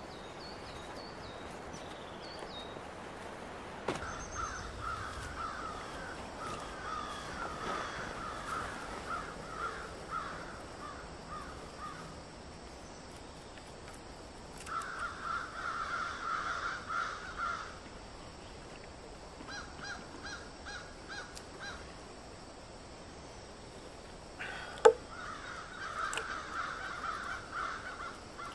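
A bird's harsh, rapid chattering calls, given in several bouts of a few seconds each, against a faint steady background hiss. One sharp click or knock comes near the end.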